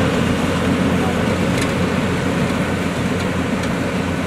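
Yanmar YH700 rice combine harvester running steadily: a loud, even mechanical din of its diesel engine and working gear, with a few faint ticks.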